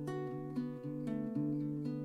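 Acoustic guitar played fingerstyle, plucked notes ringing over a held bass note, opening a slow song.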